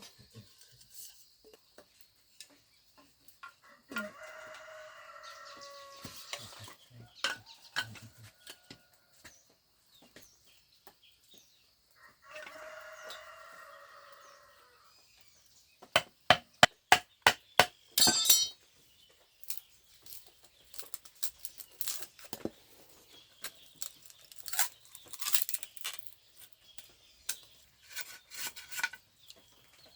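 A rooster crows twice, each crow about two and a half seconds long, with several seconds between them. Then comes a quick run of about eight sharp knocks, followed by scattered clicks and knocks.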